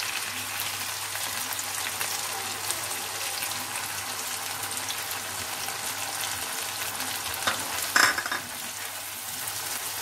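Onion and tomato sizzling steadily in mustard oil in a non-stick kadai as poppy-seed paste is added and stirred in with a silicone spatula. A brief louder noise comes about eight seconds in.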